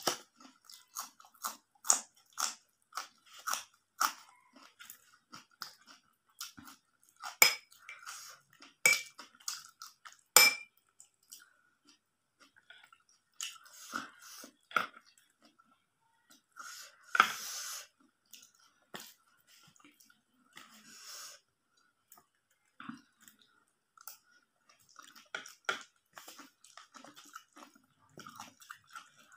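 Close-up chewing and crunching of chaat topped with crisp sev, with bites of a raw green chilli, and sharp clinks and scrapes of a metal spoon on the plate, a few of them ringing briefly about a third of the way in.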